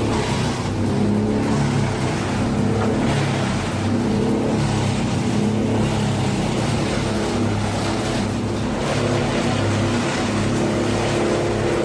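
Bandit 1990XP whole-tree chipper running steadily under load, its engine holding a constant pitch while the drum chews through a tree with a rough, grinding noise.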